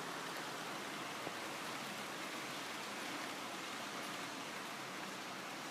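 A pair of model E7 diesel locomotives running with a train on the track: a steady, even rattling whir of wheels on rails and motors.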